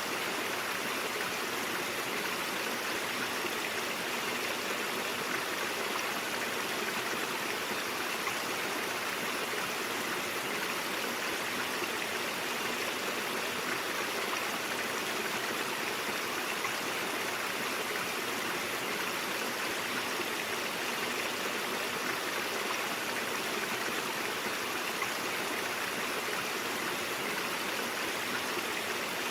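A stream flowing over rocks: a steady, even rush and babble of water that holds unchanged throughout.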